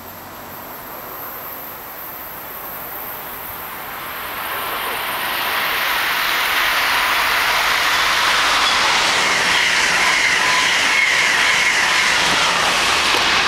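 A train approaching along the track, its noise building over the first several seconds to a steady loud rush of wheels on rail as it passes at speed, with a faint wheel squeal in the middle.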